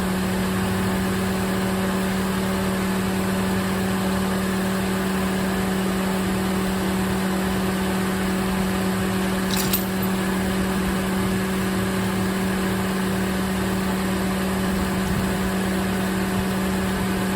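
Toyota Corolla engine idling steadily while it warms up the oil. There is one short click about ten seconds in.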